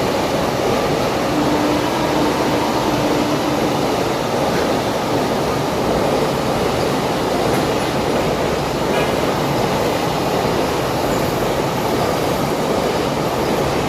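Goods train's wagons rolling along the track in a steady, unbroken rumble.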